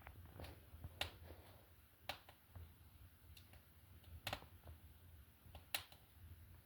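Faint, sparse sharp clicks and snaps, about five of them at uneven intervals, over a low steady hum.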